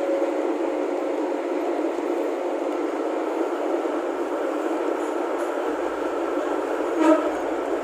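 KRDI diesel multiple unit running along the track, heard from inside the driver's cab as a steady rumble of engine and wheels on rail. About seven seconds in there is one short, loud pitched toot.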